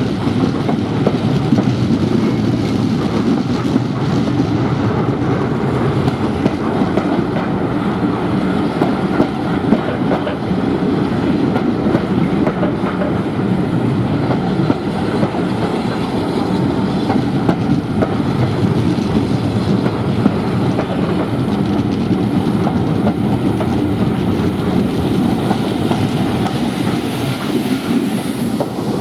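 A train running steadily along the line: a continuous rumble of wheels on the rails that holds its level throughout.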